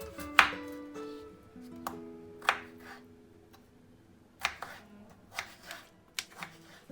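Sharp kitchen knocks, about seven of them at uneven intervals, like food prep on a work surface, over soft background music of held, plucked notes.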